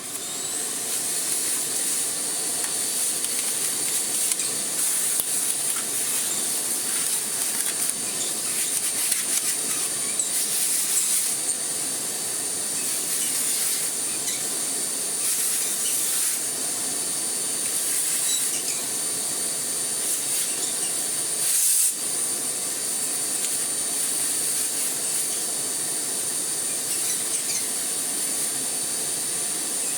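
Miele Blizzard CX1 bagless vacuum cleaner running steadily, a rushing airflow with a high whine, as its dusting brush is used to clean out the parts of the turbo brush head. The suction noise swells briefly every few seconds as the brush is worked over the parts, with the sharpest surge about 22 seconds in.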